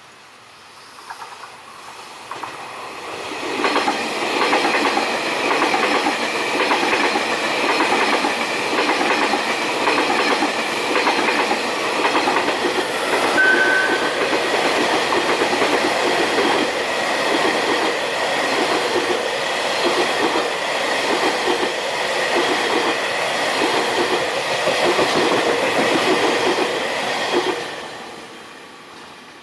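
A train passing at speed, its wheels clattering in a steady rhythm over the rail joints. It builds up about three seconds in, stays loud, and dies away near the end, with one brief high squeal about halfway through.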